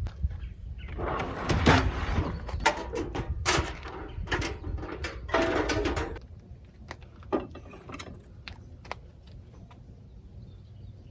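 Clicks, knocks and rustling from handling cooking gear and food containers while a meal is prepared, busiest in the first six seconds and thinning to a few scattered clicks.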